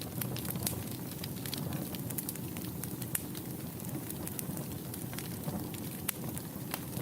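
Wood fire burning in a fireplace: a steady low rush of flames under many small, irregular crackles and pops.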